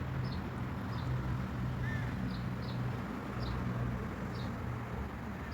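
Faint, short, high cheeps from a young bird, repeated every half second to a second, with one slightly lower arching call about two seconds in, over a steady low hum.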